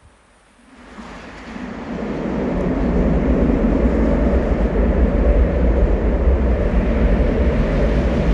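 Airbus A350's Rolls-Royce Trent XWB jet engines: a deep rushing roar that builds over about two seconds, then holds loud and steady.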